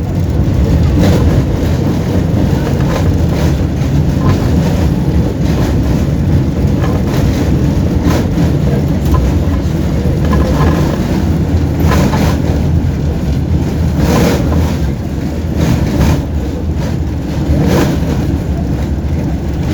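Tram running along the track, heard from inside the car: a steady, loud low rumble of wheels and motors, with sharp knocks every second or two as the wheels cross rail joints.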